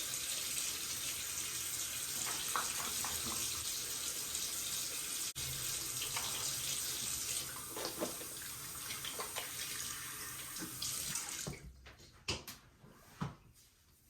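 Tap running into a sink with a few splashes, shut off near the end, followed by two or three light knocks.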